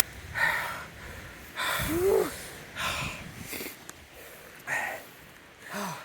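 A person breathing hard, with about six heavy huffing breaths roughly a second apart and a couple of short grunts in between, as if exerting on a hike.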